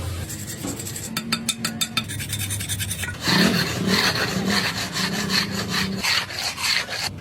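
Rhythmic rasping strokes of a file or rasp being worked by hand, about three strokes a second. The strokes get louder about a third of the way in and cut off suddenly just before the end.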